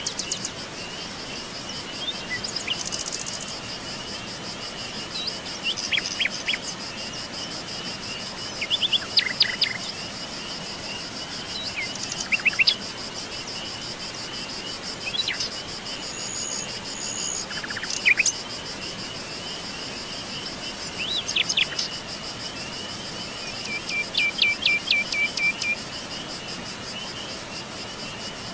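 Forest birds calling and chirping in short bursts every few seconds over a steady high-pitched insect trill, like crickets.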